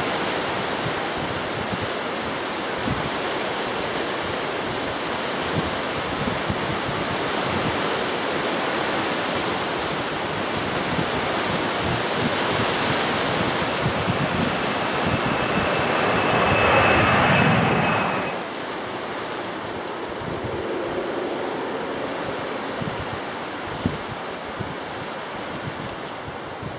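Jet aircraft engines running with a wide roar and a thin high whine, swelling to a peak about two-thirds of the way through and then dropping off sharply, over wind noise on the microphone.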